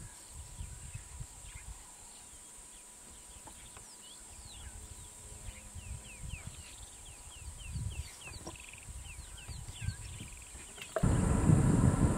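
Birds calling with a quick series of short chirps, over a faint low rumble of wind. About eleven seconds in, a much louder vehicle rumble starts abruptly.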